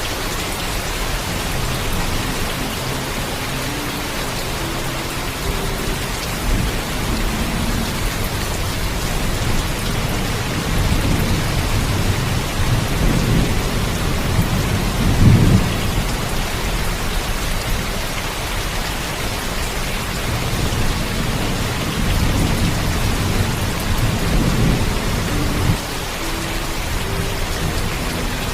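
Steady heavy rain with rolling thunder. The thunder rumbles up from about a third of the way in to a peak near the middle, and a second, softer rumble comes later.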